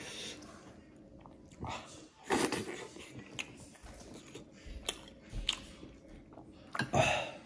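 A person chewing a mouthful of buckwheat dhido close to the microphone, with short, irregular mouth smacks and clicks.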